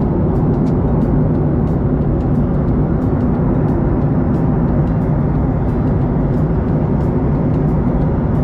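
Steady, loud running noise of a vehicle in motion, with a low, even hum throughout.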